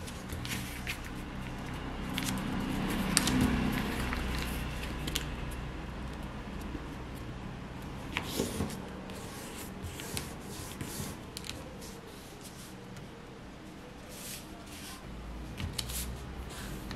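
A square sheet of paper being folded and creased by hand: rustling, with scattered short, sharp crinkles.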